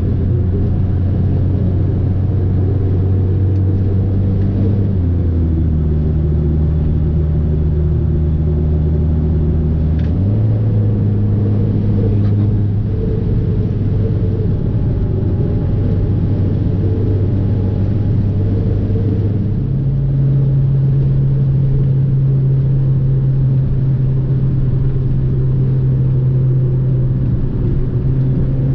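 Fiat 500 Abarth's turbocharged four-cylinder engine running steadily under way, heard with road noise. Its pitch drops in a step about five seconds in, then steps up about ten seconds in and again near twenty seconds.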